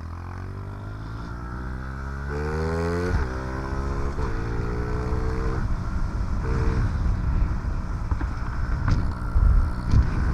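Honda CRF50F mini dirt bike's small four-stroke single-cylinder engine revving up under way. The pitch climbs for about three seconds, drops sharply, then climbs again. Later the engine note turns rougher and noisier, with a few low thumps near the end.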